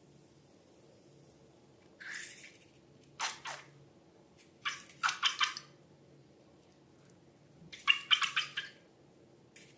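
Wet slime being squished and worked, in four short bursts of sticky clicking and crackling, the bursts around the middle and near the end the loudest.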